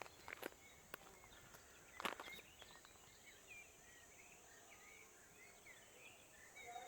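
Faint natural ambience: scattered short, high chirps of small birds and a few sharp clicks, the loudest about two seconds in, over a steady high hiss.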